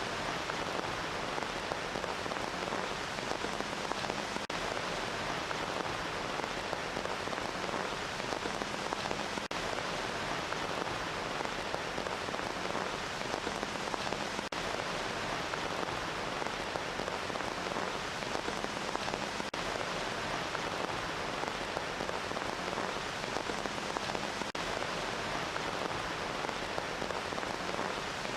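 Steady rain falling, an even hiss of many drops with no breaks or swells.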